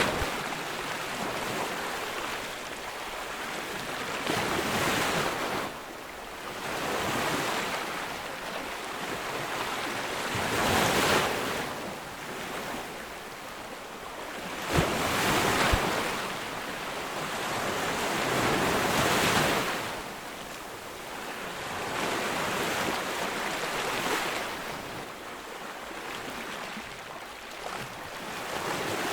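Ocean waves breaking on a beach, the surf swelling and falling away every few seconds, with one sharp click about halfway through.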